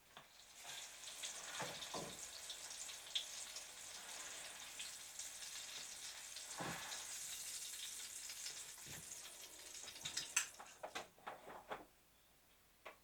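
Food sizzling in a frying pan: a steady crackling hiss that stops near the end, with a few clinks just before it stops.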